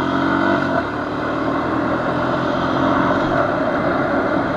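Honda FourTrax quad's engine running under way along a trail, the revs lifting a little near the start and then holding fairly steady.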